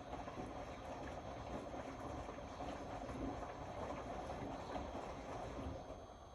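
Indesit Innex BWE 91496X washing machine running a wash cycle: a steady noisy running sound with no distinct tones, dropping in level near the end.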